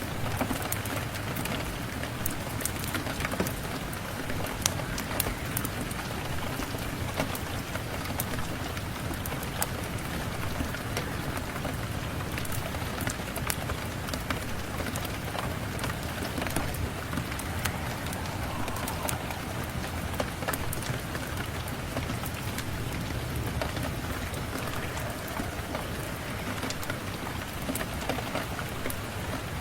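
Steady rain falling on a surface, with many small, sharp crackles scattered throughout, typical of a wood fire burning in a fireplace.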